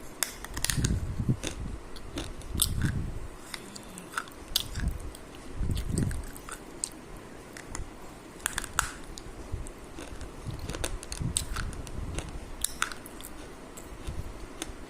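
A person biting and chewing food close to the microphone, with crisp crunching clicks and low, muffled mouth sounds.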